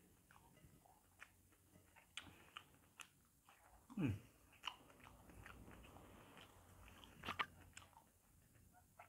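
Faint eating sounds of a man chewing ripe jackfruit: scattered small clicks and smacks of chewing, with a short falling hum about four seconds in.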